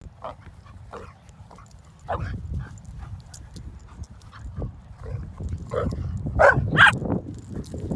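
Dogs at play: scattered short yips and whines, with two louder barks close together about six and a half seconds in.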